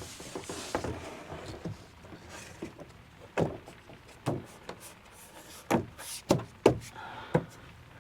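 Irregular knocks and bumps of a cut piece being pushed and tapped into place against a timber shed panel, with a handful of sharper knocks in the second half.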